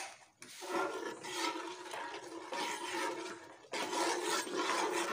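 Thick spinach curry sizzling and bubbling in a metal pot as it fries, stirred with a steel ladle, with a single knock at the start.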